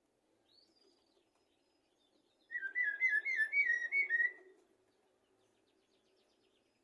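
Common blackbird singing: a faint high note about half a second in, then one loud fluting, warbling phrase lasting about two seconds.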